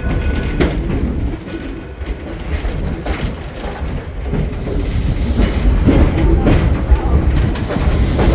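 Steam train's passenger cars on the track: a low rumble with uneven knocks, getting louder about halfway through, where a hiss joins in.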